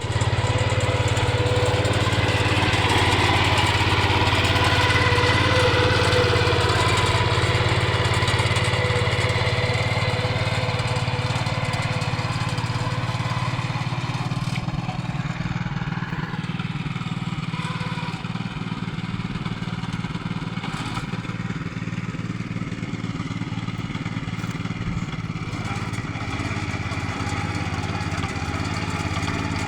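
Mini hand tractor's engine running steadily as it plows. Its hum drops to a quieter, rougher note about halfway through.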